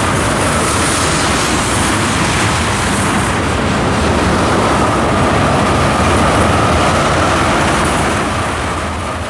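A freight train of tank cars rolls steadily past, steel wheels running on the rails, with a faint steady whine through the noise. The sound eases off near the end.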